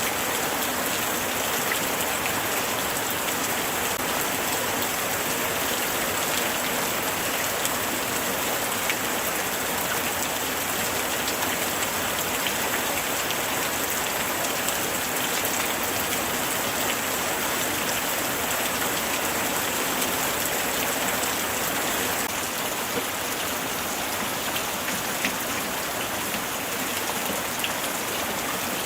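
Steady light rain falling, with scattered individual drops ticking close by.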